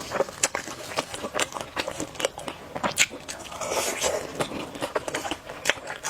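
Close-miked eating: biting and chewing with many crisp, irregular clicks and crunches, and a brief louder rush of noise about four seconds in.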